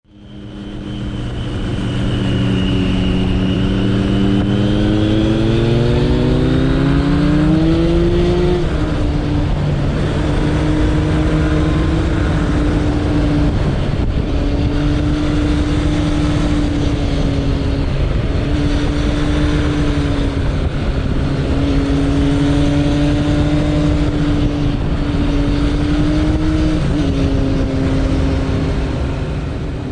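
Suzuki Bandit 1200's inline-four engine heard from the moving bike, rising in pitch as it accelerates over the first eight seconds or so, then holding a steady cruising note with a few brief dips, over a steady rush of wind noise.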